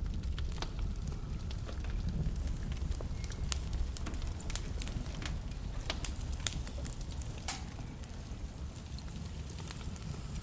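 Wood fire burning in a fireplace: a steady low rumble of the flames with irregular crackles and sharp pops from the burning logs, one louder pop near the end.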